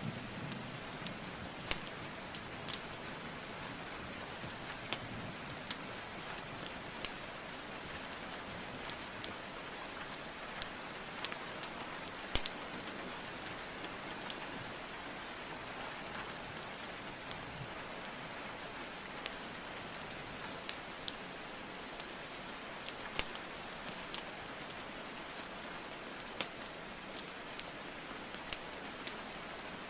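Steady rainfall with scattered sharp crackles and pops from burning wood logs, irregular and a second or so apart.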